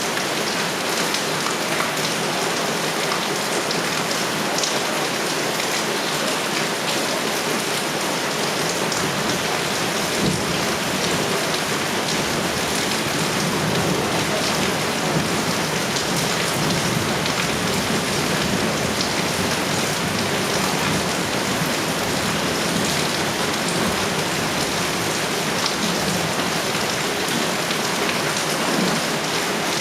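Heavy rain pouring steadily. A low rumble of thunder builds about ten seconds in and lasts through most of the rest.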